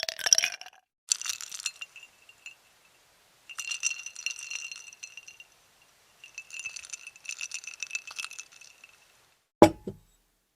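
A run of separate glass sound effects with silent gaps between them: short clinks, then longer spells of shards jingling and tinkling, and a sharp glass smash near the end.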